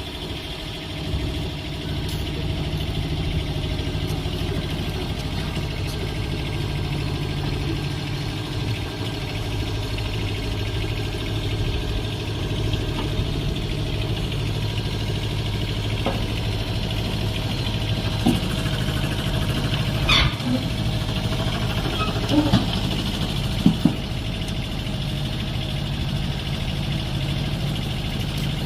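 Mini excavator engine running steadily as the machine is unloaded from a truck, with a few sharp metal clanks about two-thirds of the way through.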